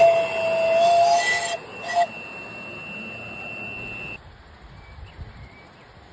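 A train gadget's horn tooting: one long blast of about a second and a half, then a short second toot. A steady high-pitched tone runs underneath and stops about four seconds in.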